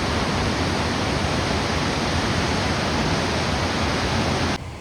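Rushing water of the Ouzoud falls or their springs, a loud, steady rush of noise that cuts off suddenly near the end.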